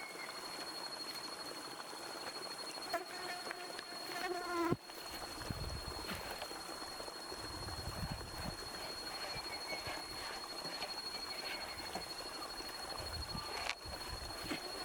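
A steady high-pitched insect drone, with scattered short chirps and a few faint knocks; the sound breaks off briefly twice.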